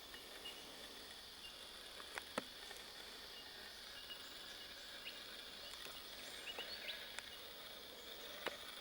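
Quiet outdoor ambience: a steady insect hum over faint background noise, with a few soft clicks about two seconds in and some short chirps near the middle.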